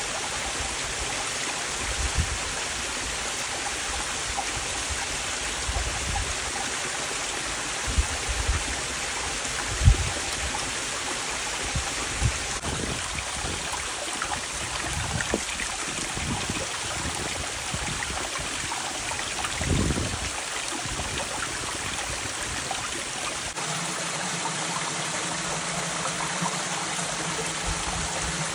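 Waterfall pouring steadily, a constant rush of falling water, with a few brief low thumps. About three-quarters of the way through, the deep rumble falls away and a steady low hum comes in.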